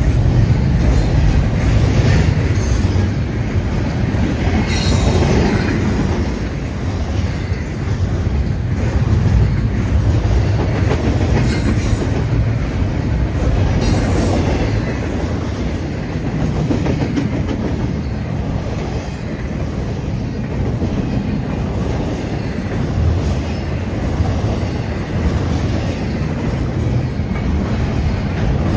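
Long freight train rolling past: a steady rumble of wheels on rail, with a few brief high wheel squeals.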